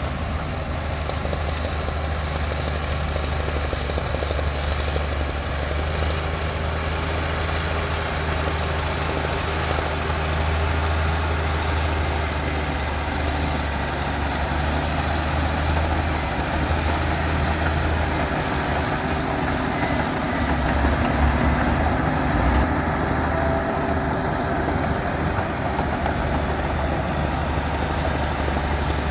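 Komatsu D60P bulldozer's diesel engine running steadily with a deep low rumble; the engine note wavers and rises slightly about twenty seconds in.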